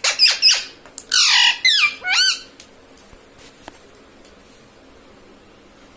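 A parrot giving a run of loud, harsh squawking calls that sweep quickly up and down in pitch, lasting about two and a half seconds, then stopping, leaving faint room noise with a few soft clicks.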